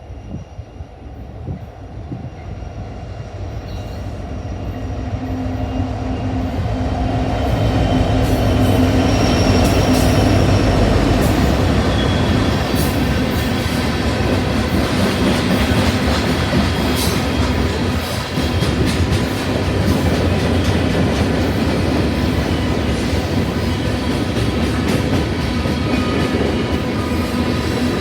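Diesel-hauled mixed freight train approaching, growing steadily louder over the first eight seconds, then rolling past at a steady level with a heavy low rumble. Steel wheels click over the rails and give thin, high squeals.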